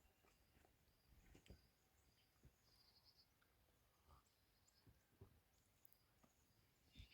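Near silence: faint open-air ambience with a few soft, short bird chirps and occasional faint knocks.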